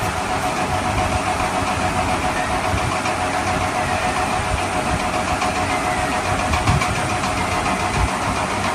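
Steady engine-like running noise with a faint constant hum in it.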